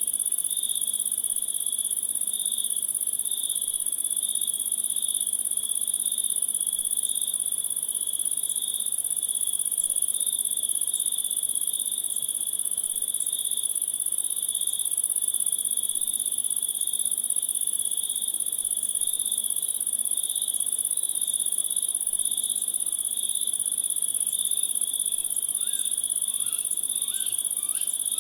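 Chorus of crickets and other insects: a steady high-pitched trill over a regularly pulsing chirp, with a few faint short calls near the end.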